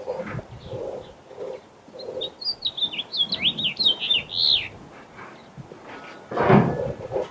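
A songbird singing a rapid warbling phrase of high chirps lasting about two and a half seconds, followed near the end by a brief loud thump.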